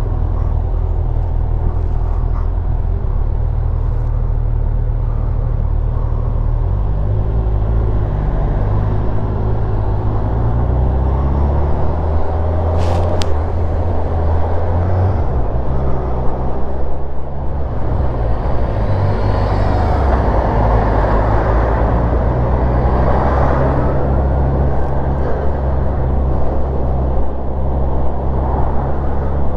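Kawasaki motorcycle engine running under way with wind and road noise, heard from the rider's own bike. Its pitch climbs in steps through the middle as it accelerates, drops back and then holds steady, and there is one sharp click partway through.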